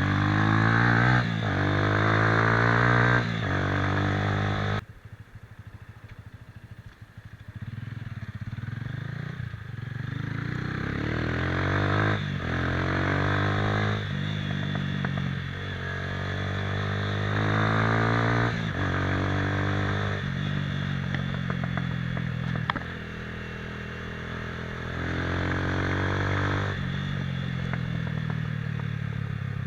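Motorcycle engine accelerating through the gears; its pitch climbs and breaks off at each shift. The engine sound falls away sharply about five seconds in, then picks up and pulls through several more gears.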